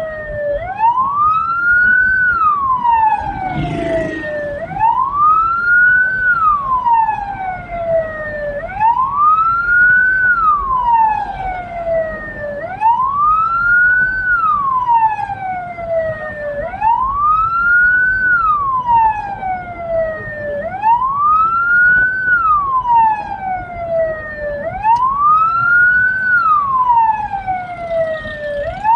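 Hearse siren wailing in a slow repeating cycle, about once every four seconds: a quick rise in pitch, then a long fall.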